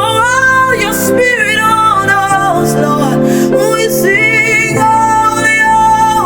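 Worship music: a woman's voice sings long, wavering, ornamented notes without clear words over a sustained accompaniment that holds steady low chords.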